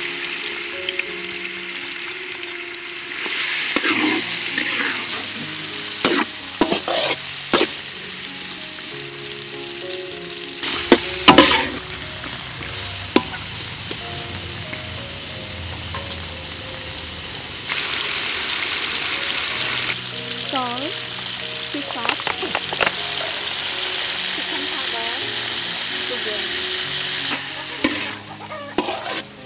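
Sliced pig liver sizzling in hot oil and chopped garlic in a steel wok, stirred with a metal spatula that scrapes and clinks against the wok now and then. The sizzle grows stronger about two-thirds of the way through.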